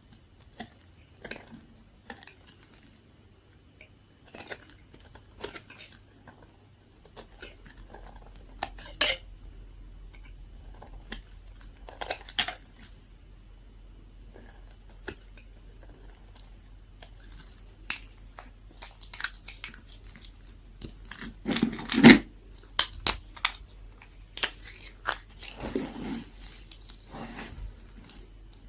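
Super-dry soap being cut, giving irregular crisp crunches and crackles, with the loudest crunch about three-quarters of the way through.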